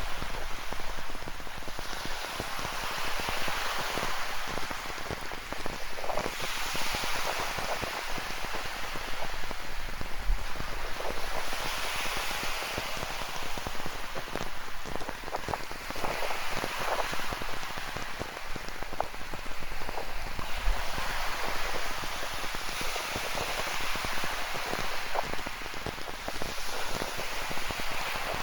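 Rain falling and pattering, over ocean surf that swells and fades every few seconds.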